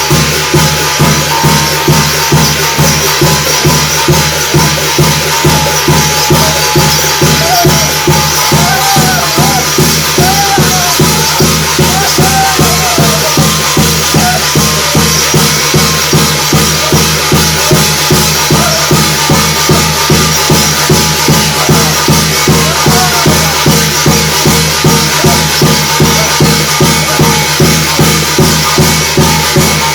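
Korean shaman ritual (gut) music: a drum beating steadily about three strokes a second under jangling metal percussion, with a wavering melodic line that comes and goes.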